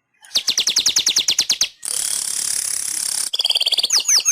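Manyar (weaver bird) singing: a fast run of sharp, downward-sliding notes, about a dozen a second. About two seconds in comes a long wheezy hiss, then near the end a quicker trill leading into another string of sliding notes.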